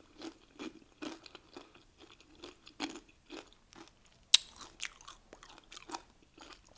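A person chewing Doritos nachos close to the microphone: a run of short, irregular crunches, with a sharper crack a little over four seconds in.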